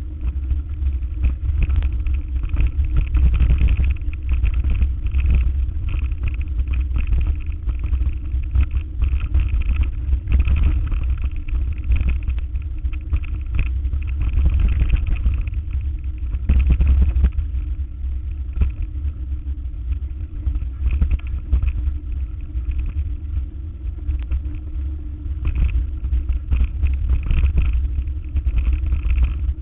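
A motor vehicle driving: a steady low engine and road rumble with frequent knocks and rattles.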